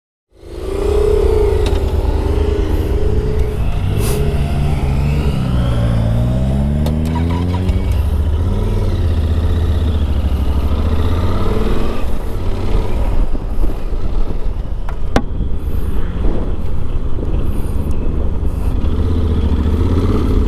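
Motorcycle engine running on the road, with its pitch sweeping down and up about four to eight seconds in as it changes speed, over steady road and wind noise. A few light clicks.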